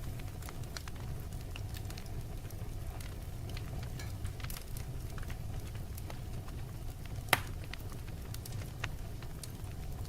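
Wood fire crackling: a steady low rumble of burning with scattered sharp pops and snaps, one louder pop a little after seven seconds in.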